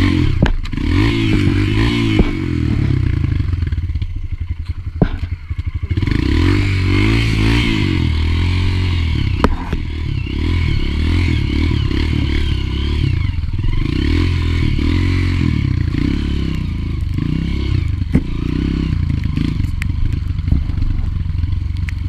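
Honda CRF230F trail bike's single-cylinder four-stroke engine revving up and down as it is ridden over a muddy track, easing off for a moment about four seconds in. Now and then a sharp knock or clatter cuts across the engine.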